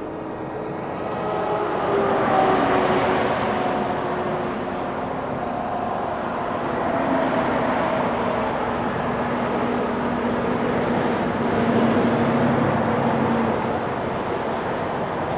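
Semi trucks driving past: engine drone and tyre noise swell as each goes by, loudest about two seconds in and again about twelve seconds in. The engine note falls as the first truck passes.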